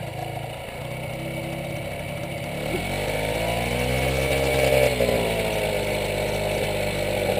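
Small dirt bike engine running just after being restarted from taking on water, which its riders say runs badly when cold. It idles, then the revs rise about three seconds in and fall back near five seconds, settling into a slightly faster steady run.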